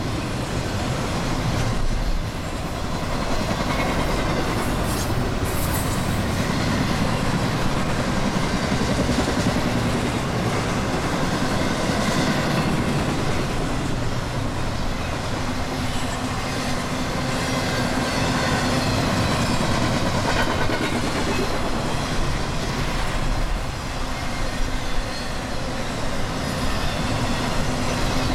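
Freight train cars rolling past, a steady rumble of steel wheels on the rails with some clickety-clack and a faint squeal.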